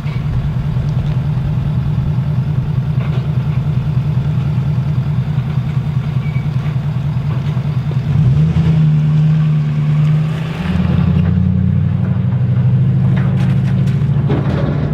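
Straight-piped diesel pickup truck engine droning steadily while driving with a trailer in tow. Its pitch steps up about eight seconds in and shifts again around eleven seconds, as the throttle or gear changes.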